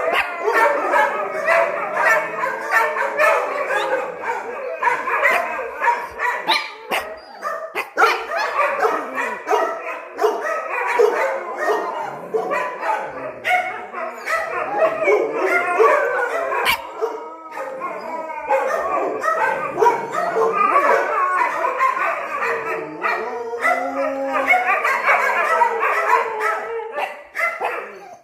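Several dogs barking and howling together without a break, an agitated chorus of dogs on high alert; it cuts off suddenly at the end.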